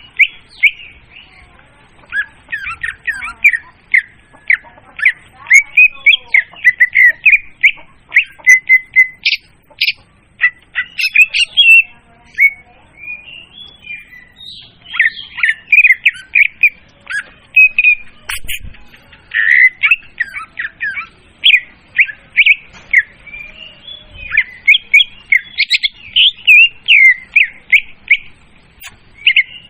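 Leafbird song: fast, varied runs of short chirps, squeaks and whistled notes in dense phrases, almost without pause.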